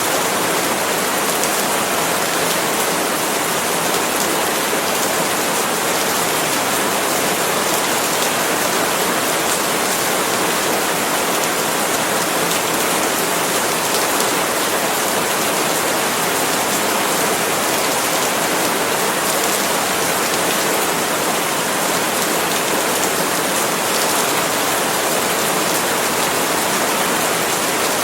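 Steady rain falling on palm leaves, a constant even hiss of drops with fine pattering detail throughout.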